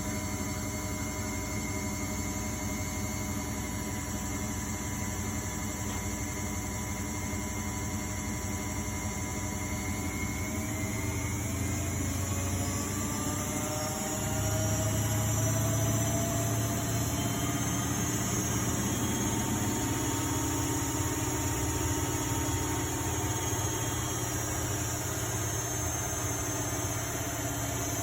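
Miele Novotronic W828 washing machine's drum motor running with a steady whine. About ten seconds in it glides up in pitch as the drum speeds up into a spin, then holds steady at the higher speed with a deeper hum.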